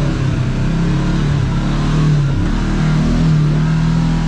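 Kawasaki KRX side-by-side's parallel-twin engine running under way on a trail, its revs dipping about two and a half seconds in, then climbing again and holding steady.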